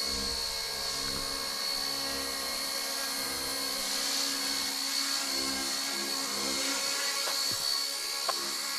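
K170 brushless RC helicopter running steadily in flight, its electric motors giving a constant high whine over the rotor hiss. It is being flown in to land, and there are a couple of faint ticks near the end.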